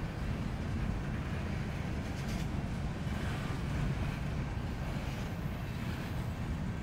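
Train rolling past, a steady low rumble with wind noise on the microphone.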